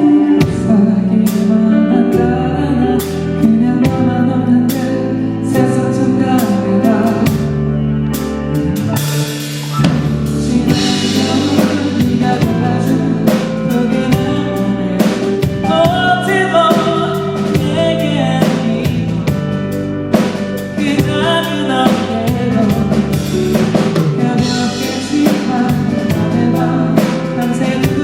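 Live band performance of a pop-rock song: a lead singer over a drum kit keeping a steady beat and sustained instrumental backing.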